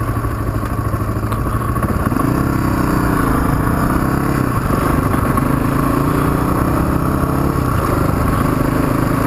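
Suzuki DR350 single-cylinder four-stroke dual-sport motorcycle engine running under way. The revs rise about two seconds in, dip briefly twice, and pick up again to a steady pull.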